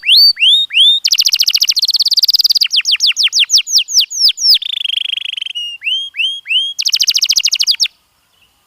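Domestic canary singing: a run of phrases of quick rising whistled notes, a rapid trill, a series of falling notes, a buzzy rattle and another fast trill. The song stops abruptly about eight seconds in.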